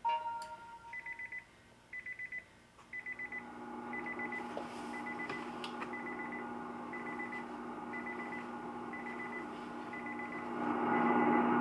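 Electronic warning chime of a 2013 Nissan Leaf as the car is switched on. A short chime tone sounds first, then three quick trilling beeps about a second apart, then single high beeps about once a second. Under the beeps, a steady low hum comes in about three and a half seconds in.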